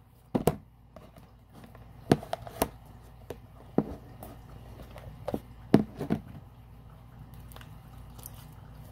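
Very sticky slime being worked by hand, giving irregular sharp pops and clicks as it stretches and pulls away, about eight in all.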